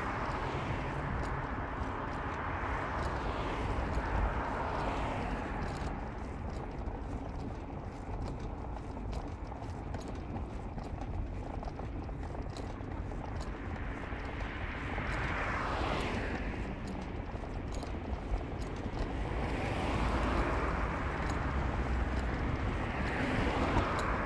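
Steady road and engine noise of a car driving, swelling briefly twice, about two-thirds of the way through and again near the end.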